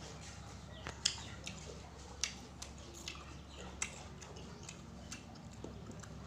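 Close-up mouth sounds of a person eating: irregular wet smacks and clicks, the sharpest about a second in, again past two seconds and near four seconds.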